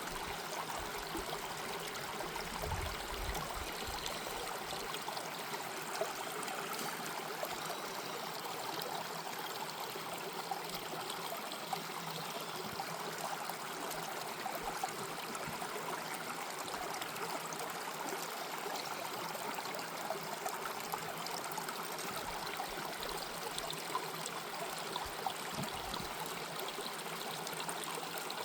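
Mountain stream flowing steadily, an even rush of running water with trickling.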